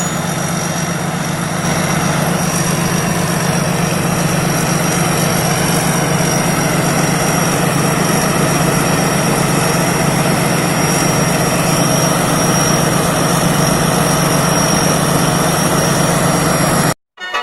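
Thai Seng rice combine harvester's engine running steadily under a thin, constant high whine. The sound cuts off abruptly near the end.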